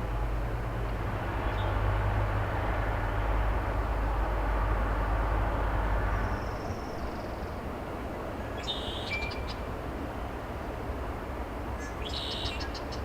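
Low, steady rumble of an excavator's diesel engine working down the road, which drops away suddenly about six seconds in. In the second half a bird gives two short high calls a few seconds apart.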